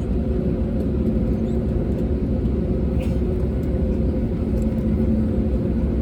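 Steady cabin rumble of an Airbus A320neo's Pratt & Whitney geared turbofans at idle on the ground, with a constant hum of several steady tones.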